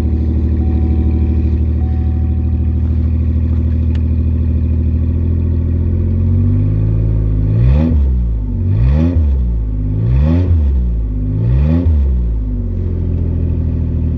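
Pontiac car engine with a broken exhaust idling just after a cold start, then revved in four quick blips, each rising and falling, about one every second and a half, before settling back to idle.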